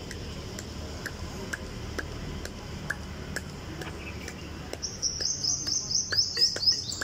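A bird calling: faint high chirps, then about five seconds in a fast run of loud, high, down-slurred chirps, several a second. Faint regular ticks about twice a second sound under it throughout.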